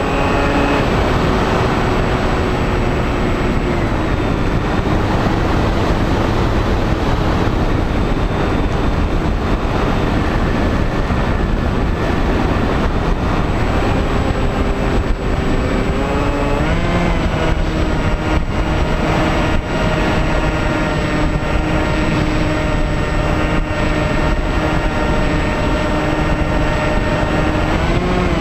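Bixler 2 RC plane's electric motor and propeller whining in flight, heard from the onboard GoPro over steady wind rush; the pitch steps down and up with the throttle, climbing sharply about two-thirds of the way through and again at the end.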